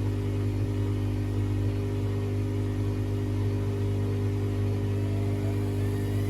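A motor running steadily with a strong, deep hum.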